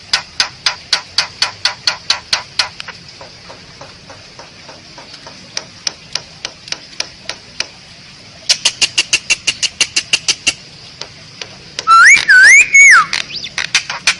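Asian pied starling (jalak suren) singing: a rapid run of dry clicks, about eight a second, that fades out, a second run of clicks, then loud, fluid whistled notes sliding up and down near the end.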